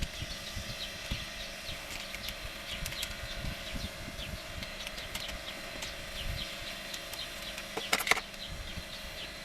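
Sparse light clicks of hand tools at work on a motorcycle engine, with a short rapid clatter about eight seconds in. Many faint short bird chirps sound in the background throughout.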